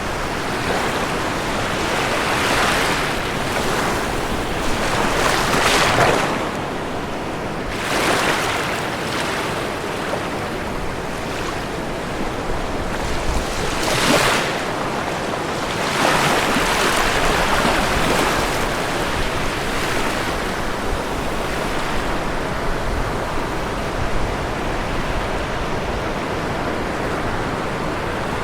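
Ocean waves breaking and washing up the shore, a continuous rush of surf that swells with each wave, several times over.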